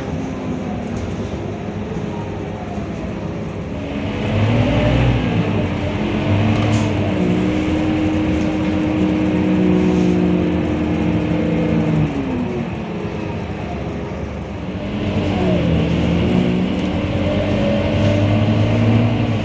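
Scania K230UB bus's five-cylinder diesel engine accelerating through its gears, its pitch rising and falling with each change. It eases off about twelve seconds in, then pulls away again about three seconds later.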